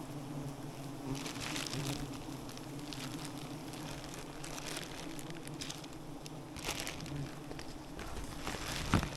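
Wild bees droning steadily around their nest, with intermittent rustling and crackling from handling and a sharper knock near the end.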